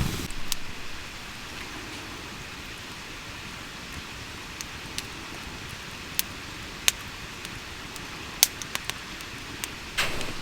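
Wood campfire crackling: a steady hiss with scattered sharp pops, the loudest a little past eight seconds in and another just before the end.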